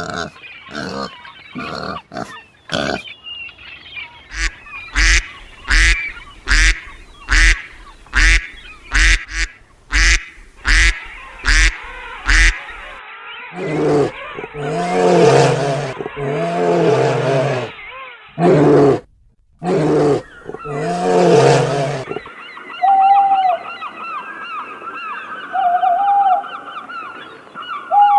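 Geese and ducks calling across several animal clips: a run of short, evenly spaced honks, then longer honking calls, then a few faint quacks near the end.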